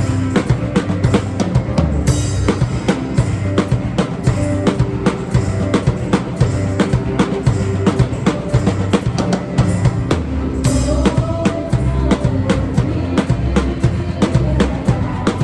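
Acoustic drum kit played in a steady groove of bass drum and snare hits over accompanying worship music, picked up by a phone's microphone in the room. A crash cymbal rings out about two seconds in and again about two-thirds of the way through.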